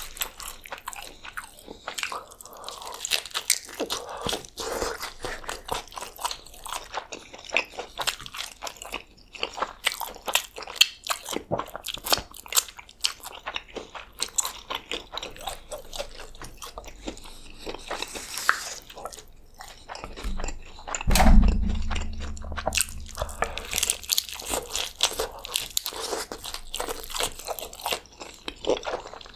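Close-miked chewing and crunching of crispy birria tacos: dense, irregular crackly bites and mouth sounds. A loud low thump about two-thirds of the way through.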